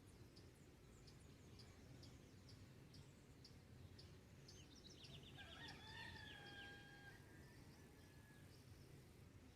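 Faint dawn farm ambience: a distant rooster crows once, about five seconds in, ending on a long held note. Under it, a small bird gives short high chips about twice a second over a low steady background hum.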